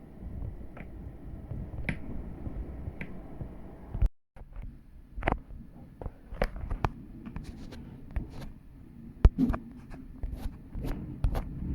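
Strong storm wind buffeting the microphone as a low rumble, with a brief cut-out about four seconds in, followed by a scatter of sharp clicks and taps.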